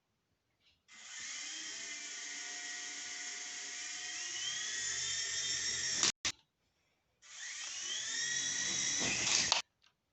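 Small electric motors of a V-Max HX 708 toy helicopter whining as its rotors spin, in two runs: a first of about five seconds that grows louder and cuts off suddenly, then a shorter second run that rises in pitch as it spins up.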